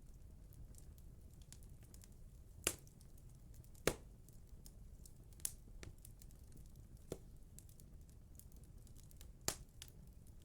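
Fire burning in a cast-iron fireplace firebox: a low steady rumble with scattered faint crackles and five sharp pops a second or two apart.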